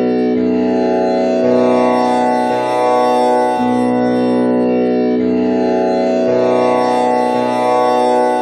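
Tanpura drone in B, tuned with komal Ni: its strings are plucked in turn about once a second in a repeating cycle, each pluck freshening a steady, buzzing wash of overtones.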